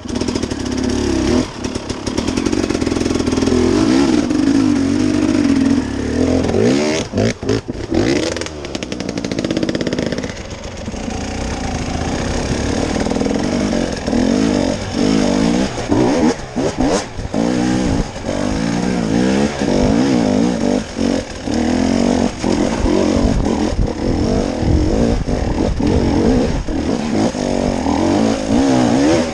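Off-road vehicle engine revving up and down again and again as it is driven over a rough trail, with some clatter.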